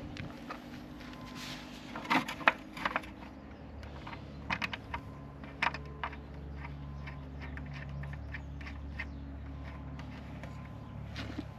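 Tools and small metal parts clicking, knocking and clinking as parts are handled while fitting a motorbike mudguard, over a steady low hum that strengthens about halfway through.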